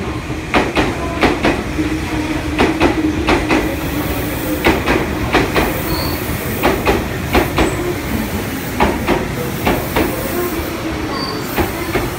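Meitetsu 1000 series Panorama Super electric train rolling along the platform, its wheels clacking over rail joints in close pairs, bogie after bogie, over a steady low running hum.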